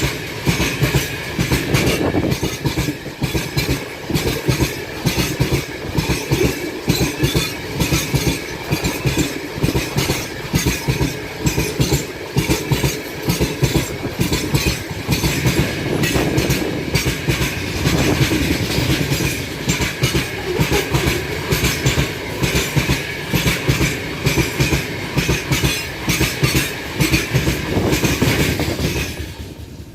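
Freight train passing close by, its wagon wheels clattering over the rail joints in a fast, steady clickety-clack. The sound drops away right at the end.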